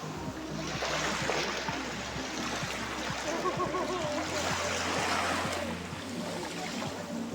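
Sea waves washing onto the shore, a rushing, splashing noise that swells and eases.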